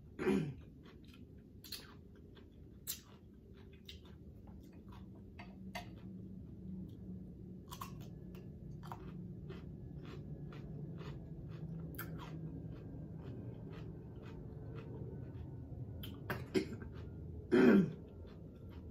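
Close-miked eating: chewing with many sharp wet mouth clicks, and a short throat-clearing sound just after the start and another near the end, each falling in pitch.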